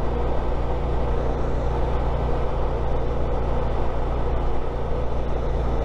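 Honda ST1300 Pan European's V4 engine running at a steady cruise, mixed with wind and road noise from riding at speed.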